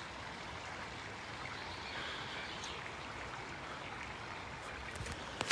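Steady rushing of flowing stream water, with one short click near the end.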